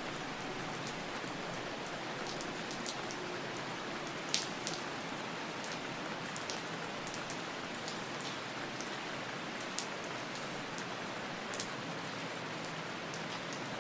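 Steady rain falling, an even hiss with scattered individual drops ticking sharply on a surface; one louder drop about four seconds in.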